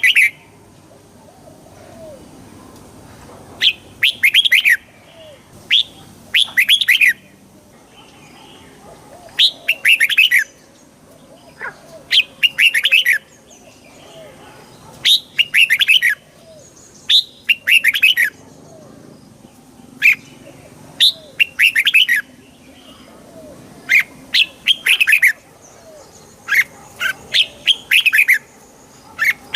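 Red-whiskered bulbul singing: short phrases of quick, chirpy notes, repeated every two to three seconds.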